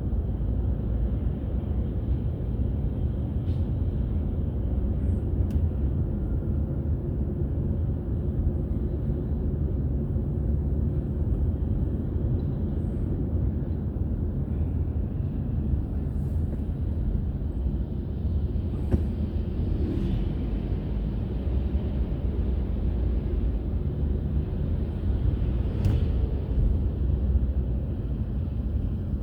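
Steady low rumble of a car driving along, its tyre and engine noise holding at an even level, with a few faint clicks.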